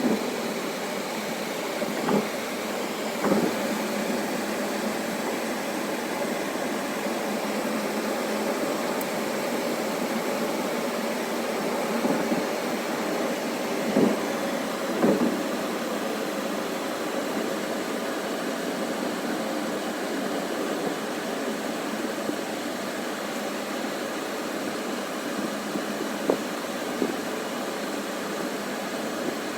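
Sandstorm wind blowing hard and steadily, a continuous rushing noise, with a few short gusts knocking against the microphone.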